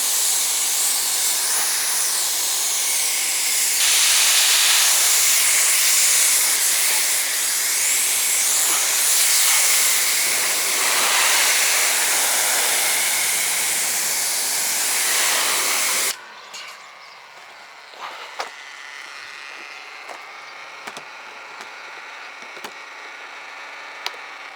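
Pressure washer rinsing a car: a loud, steady hiss of high-pressure water spray with a faint motor hum beneath. It cuts off suddenly about two-thirds of the way in, leaving only a few faint ticks.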